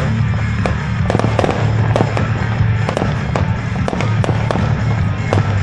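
Fireworks launching and bursting: many sharp pops and bangs in quick succession, over loud music with a steady bass.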